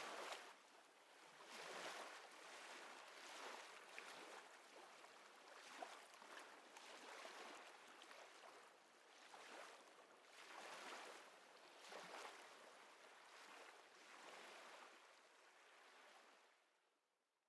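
Faint small waves lapping at the water's edge, soft washes that swell and ebb every second or two, fading away near the end.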